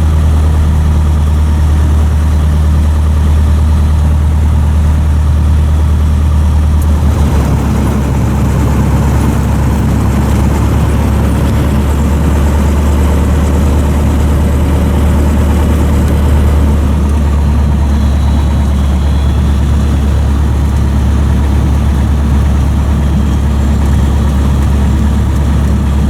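Cessna 152's Lycoming O-235 four-cylinder engine running at low power while taxiing, heard loud and steady from inside the cabin; the low drone changes character about seven seconds in.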